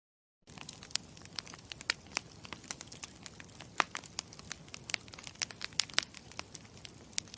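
Campfire crackling: a steady hiss of burning wood with frequent sharp, irregular pops and snaps. It starts abruptly about half a second in.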